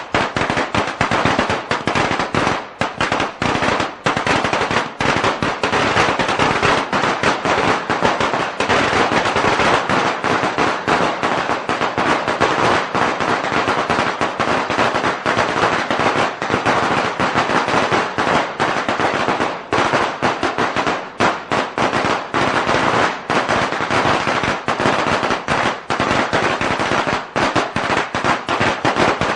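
A string of firecrackers going off in a dense, unbroken rapid-fire crackle of bangs.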